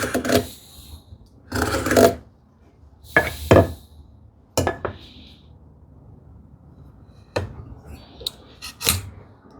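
Hand tools and wooden workpieces handled on a workbench: about six irregular knocks and scrapes, with short rubbing between them.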